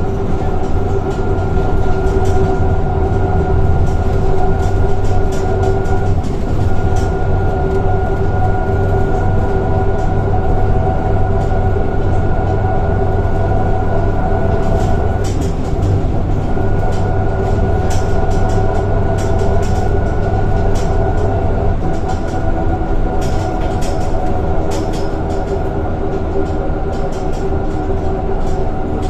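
Scania K230 bus under way, engine and drivetrain running steadily with a low rumble and a high whine from the ZF automatic gearbox. The whine breaks off and comes back a few times.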